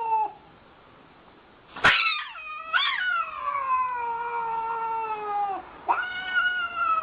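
A cat yowling in long, drawn-out calls. One call ends just after the start. After a short pause and a click, a long wavering yowl swells twice and then slowly falls in pitch. Another yowl begins near the end.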